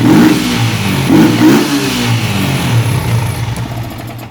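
Yamaha MT-15's single-cylinder engine revved in a few quick blips over idle, with the loud, sporty intake note of an air filter box that has been opened up while the stock exhaust is kept. It falls back to a steady idle near the end.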